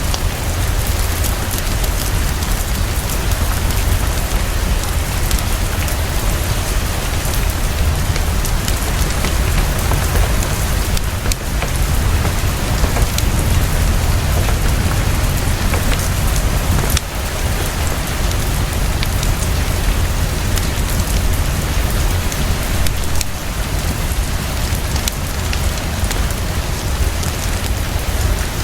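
Heavy, fast, steady rainfall with a deep low rumble underneath and a few sharp clicks now and then.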